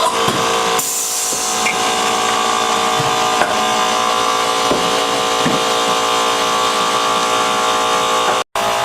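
A machine running with a steady hum, with a few light knocks over it; the sound drops out for an instant near the end.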